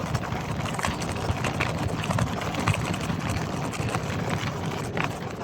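Marin Gestalt X10 gravel bike riding over a rough, bumpy trail: a steady rush of tyre noise with frequent small, irregular knocks and rattles as the bike judders over the surface.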